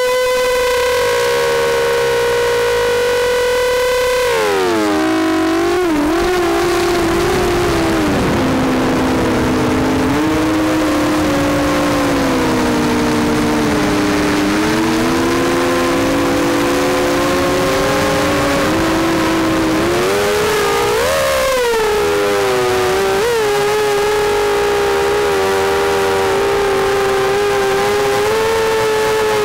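ZMR 250 quadcopter's brushless motors and propellers whining, the pitch shifting with throttle: steady at first, dropping about four seconds in, staying lower through the middle, then rising briefly about twenty-one seconds in before settling to a steady whine.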